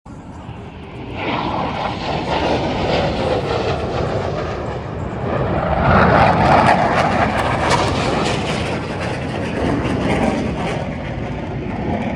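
Airplane flying past at an air show. Its engine noise swells to its loudest about six seconds in, then fades slightly.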